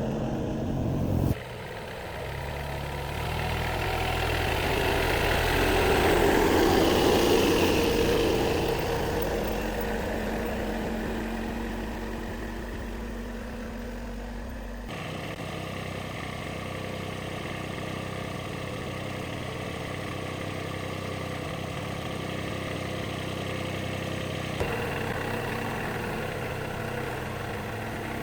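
Jeep engine idling steadily, heard in several cut-together stretches that change abruptly about a second in, midway and near the end, with a louder swell early on.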